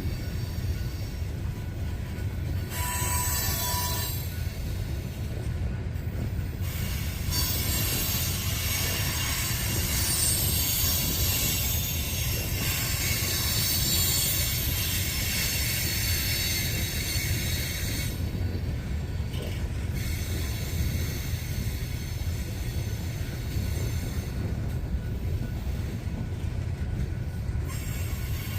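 Loaded coal train's hopper cars rolling past with a steady low rumble of wheels on rail. High-pitched wheel squeal rises over it in the middle and fades near the end.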